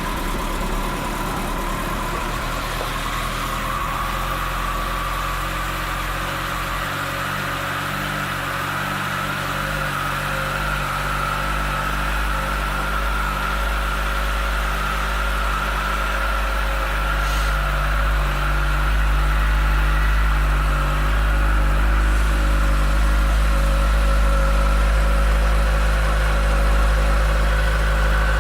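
2016 Kawasaki ZX-14R's inline-four engine idling steadily, with a faint whine that creeps slowly up in pitch and the sound growing slightly louder past the halfway point.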